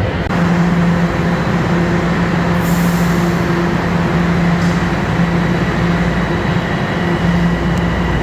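Eglinton Crosstown light rail train running between stops, heard from inside the car: a loud, steady rumble of wheels and running gear with a constant low hum.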